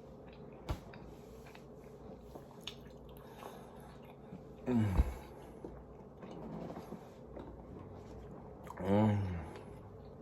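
Close mouth sounds of someone chewing food, with small wet clicks. Two hummed "mmm"s of enjoyment stand out, one falling in pitch just before five seconds in and a shorter one about nine seconds in.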